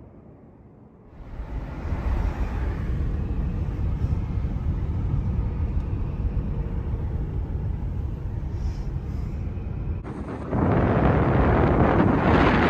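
Wind buffeting the microphone: a rough, low rumbling noise that starts about a second in and jumps louder and brighter near the end.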